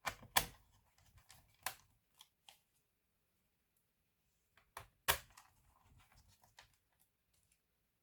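Sharp clicks and taps of small hard laptop parts being handled, in two clusters: several in the first two seconds, then a louder pair about five seconds in followed by lighter ticks.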